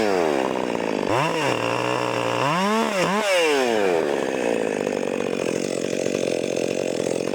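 Stihl MS 400 C two-stroke chainsaw with a muffler mod, revved up and back down several times, then held steady at high revs for the last few seconds.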